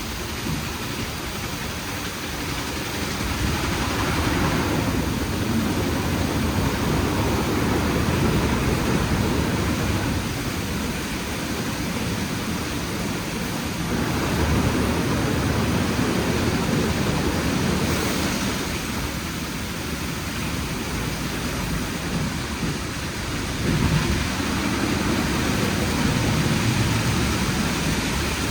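WashTec SoftCare² Pro rollover car wash running: a steady rushing noise of the machine at work over a low rumble, swelling and easing every few seconds.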